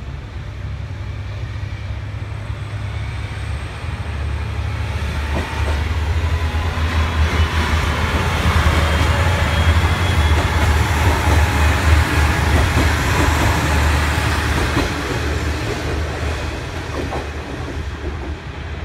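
Diesel railcar passing slowly alongside the platform, its engine rumbling and its wheels clicking over the rail joints. The sound builds to its loudest midway through and then fades as the train moves away.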